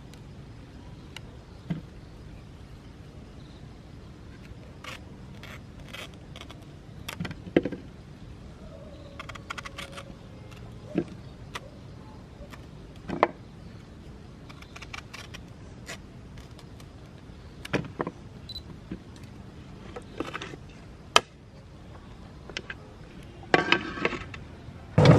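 Scattered clicks, knocks and handling noises over a low steady background hum, with a short louder burst near the end.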